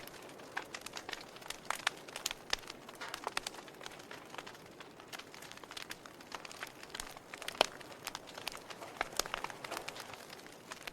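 Wood fire burning in a fireplace, with a steady low hiss and irregular sharp crackles and pops, one louder pop about three-quarters of the way through.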